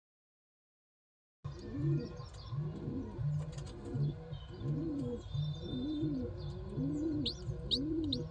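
Pigeons cooing in a steady, evenly repeated rhythm, with a few short high chirps near the end. The first second and a half is silent.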